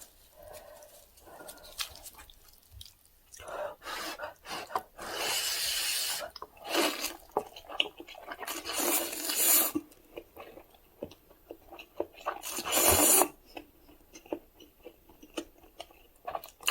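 Instant ramen noodles being slurped in several long noisy pulls, with wet chewing and small mouth clicks in between.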